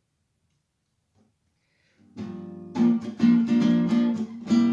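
Silence for about two seconds, then an acoustic guitar comes back in with strummed chords, soft at first and strong from about three seconds in.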